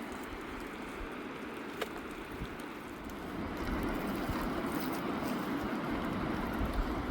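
Wind blowing over the microphone outdoors, a gusty rumble that grows louder about halfway through, with a faint click near the two-second mark.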